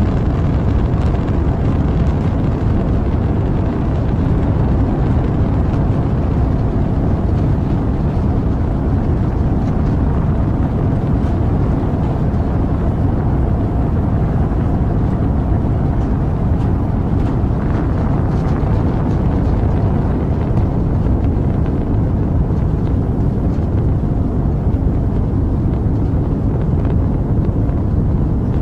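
Rocket engines running at full thrust: a loud, steady, deep noise with no let-up, strongest in the low end and thinning toward the top.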